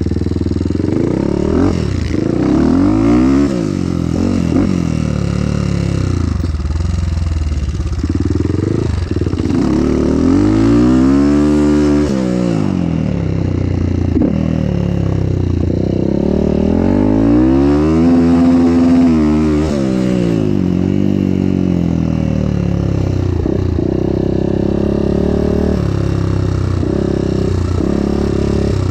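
Motorcycle engine under way, its pitch climbing and falling in long sweeps as the rider accelerates and slows, twice rising to a high rev in the middle.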